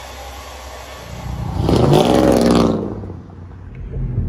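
A vehicle engine revving hard, its pitch rising and falling over about two seconds, loudest around the middle. It fades out, and near the end a steady low road rumble takes over.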